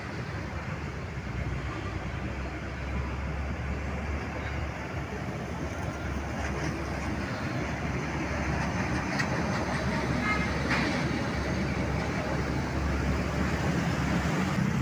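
Road traffic with heavy trucks and buses running past, a continuous engine rumble that grows louder toward the end, with a few short high-pitched tones about ten seconds in.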